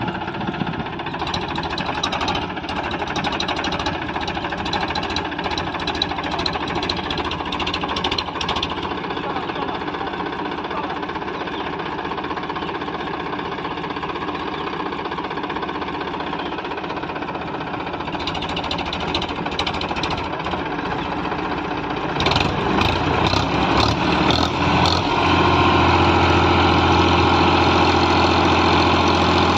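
Diesel tractor engine running with a clattering knock, louder and steadier in the last few seconds.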